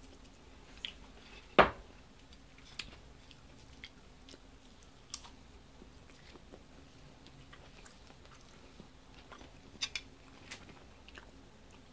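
A person chewing a bite of batter-fried green tomato, with faint scattered clicks and crunches of the crust, mouth-close. One sharper click stands out about a second and a half in.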